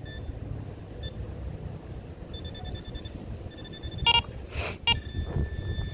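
Metal detector pinpointer beeping in short high pulses that come faster and then hold as one steady tone about five seconds in, as it closes on the buried target. A short scrape shortly before and steady low wind rumble on the microphone.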